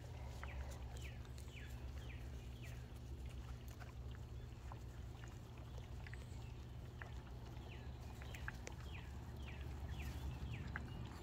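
A songbird sings two phrases of repeated down-slurred whistled notes, about two notes a second, one near the start and one near the end. A steady low hum and scattered small clicks and rustles run underneath.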